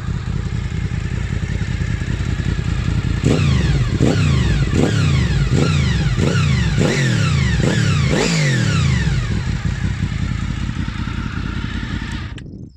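Motorcycle engine idling through its exhaust, then blipped about eight times in quick succession, each rev rising sharply and falling back, before settling to idle again. The sound cuts off abruptly near the end.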